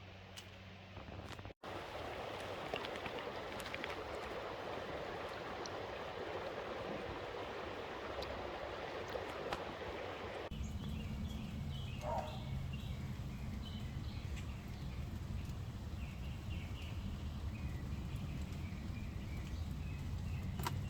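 Running water of a small stream. Partway through, it gives way to a low steady hum with birds chirping.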